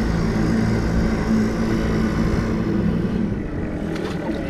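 Small boat motor running steadily, its hum easing off about three seconds in.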